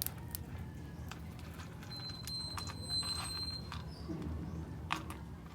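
Small sharp clicks and cracks at irregular intervals, a sun conure cracking sunflower seeds in its beak, over a steady low hum. A thin, steady high whistle sounds for about two seconds in the middle.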